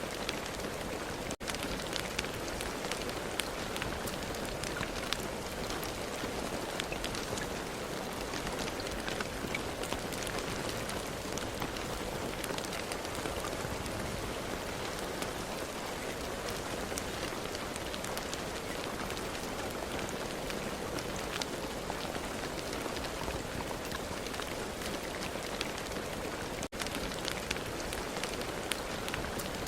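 Steady rain: an even hiss with many separate drops tapping through it. The sound cuts out for an instant twice, about a second in and near the end.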